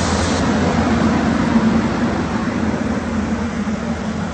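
SEPTA Silverliner IV electric multiple-unit railcars passing close by: a steady rumble of wheels on rail with a steady hum, easing slightly as the last car goes by near the end.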